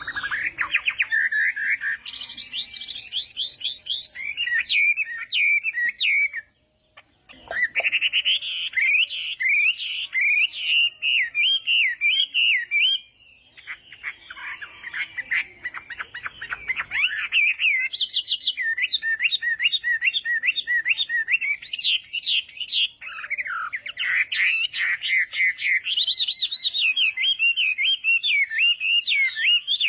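Chinese hwamei (hoạ mi) singing a long, varied song of rapid whistled phrases, with one short pause about six and a half seconds in.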